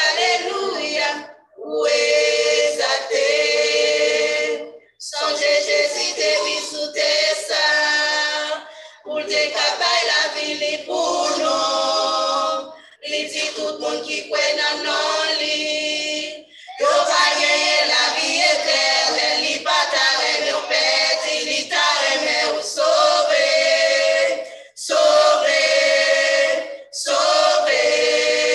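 Choir singing a hymn of praise in phrases of a few seconds, with short breaks between phrases.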